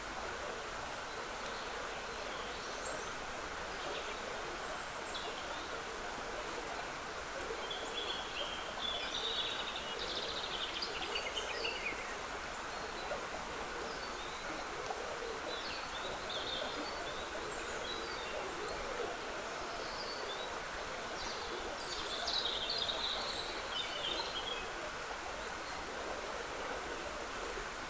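Small stream trickling steadily, with woodland birds singing short chirps and trills over it, busiest about a third of the way in and again near the end.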